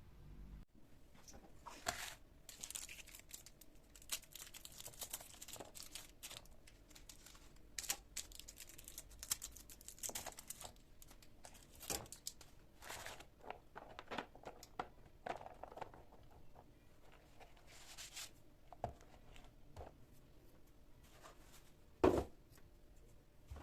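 Irregular rustling and crinkling with many small clicks, as of something being handled, with one louder knock about 22 seconds in.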